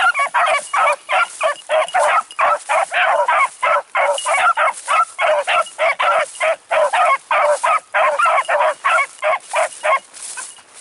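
A pack of beagles baying as they run a rabbit's track: fast barks, about three to four a second, that stop abruptly about ten seconds in.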